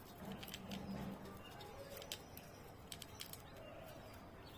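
Budgies nibbling coriander leaves with their beaks: faint, irregular little clicks and crunches.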